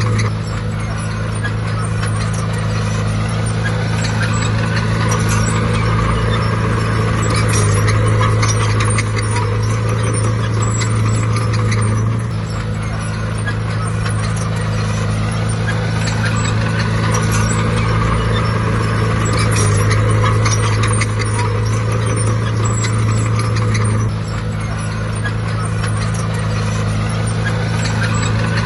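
Bulldozer's heavy diesel engine running steadily, with scattered knocks and rattles. The sound dips briefly and recovers about every twelve seconds.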